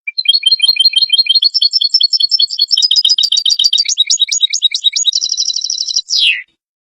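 European goldfinch singing one rapid twittering phrase of quick high notes, ending in a buzzy trill and a falling note about six seconds in, then stopping abruptly.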